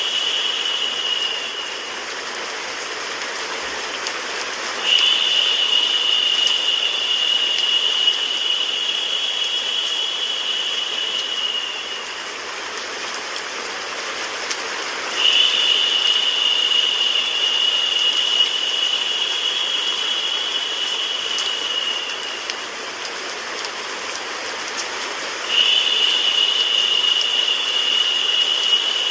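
Steady rain-like white noise, with a narrower, higher-pitched hiss that swells in for several seconds and drops out roughly every ten seconds: about a second in, about twelve seconds in and about twenty-two seconds in it falls away, coming back each time a few seconds later.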